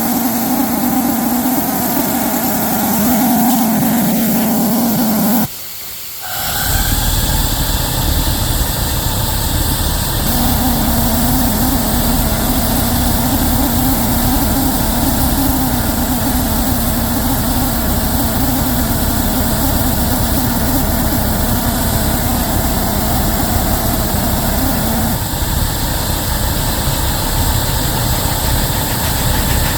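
Locomotive working with a heavy train, a steady mechanical run with a constant hum. The sound drops abruptly for about a second some five seconds in, then returns with a heavier low rumble.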